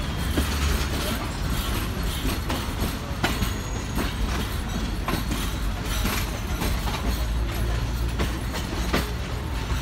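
Pakistan Railways passenger coach rolling over jointed track, heard from its open doorway: a steady low rumble with irregular clicks and knocks as the wheels cross rail joints.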